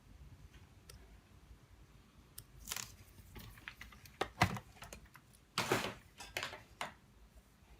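A cluster of sharp clicks and short scrapes from small hard parts and tools being handled on a work surface, the loudest about halfway through and again near the end.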